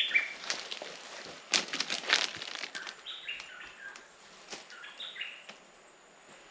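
A bird calling three times, each call a short run of notes stepping down in pitch. Between the calls come crackling rustles in dry leaf litter and twigs, loudest about one and a half to two seconds in.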